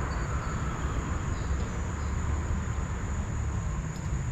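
Steady high-pitched drone of insects, such as crickets, over a louder low rumbling noise.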